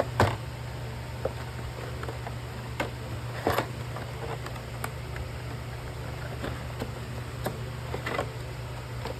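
Irregular clicks and rustles of small parts and packaging being handled, the loudest just after the start and about three and a half seconds in, over a steady low hum.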